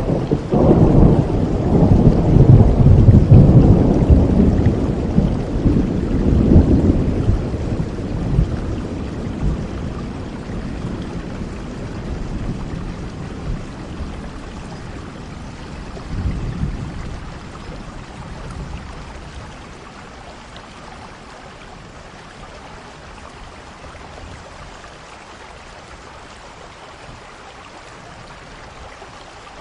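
Steady rain with a long, low roll of thunder over the first several seconds that fades away, a weaker rumble about halfway through, then rain alone.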